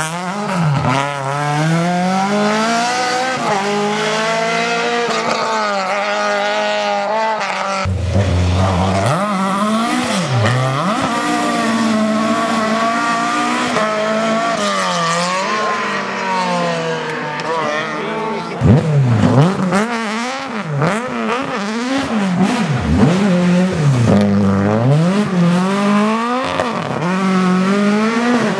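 Rally car engines at full effort on a stage, the engine note repeatedly climbing and dropping as the cars rev hard through the gears and lift off for corners. The sound changes abruptly about a third and two thirds of the way through, as a different car or pass takes over.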